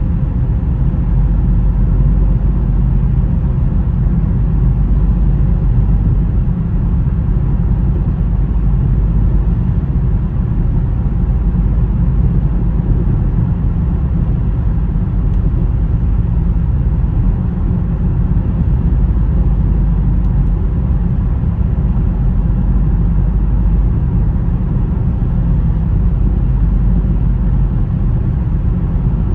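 Car driving on snowy roads: a steady low rumble of engine and tyre noise that holds even throughout.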